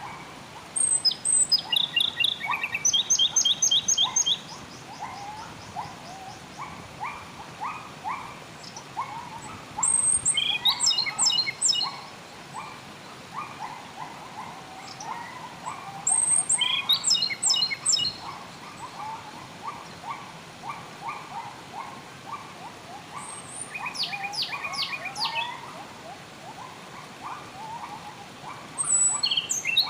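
Wild songbird singing loud phrases of rapid, high, repeated notes about every six to seven seconds, over a steady chatter of shorter, lower calls.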